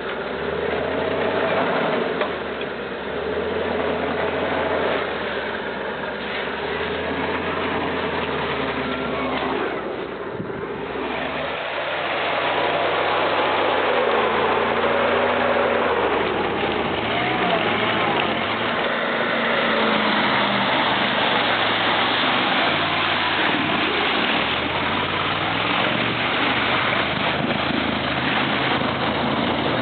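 Off-road vehicle's engine running, its revs rising and falling again and again from about twelve seconds in.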